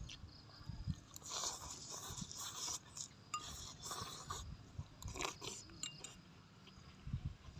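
Crunchy chewing in irregular bursts as raw onion rings and roast duck are bitten and chewed, with a metal spoon clinking in a glass sauce bowl.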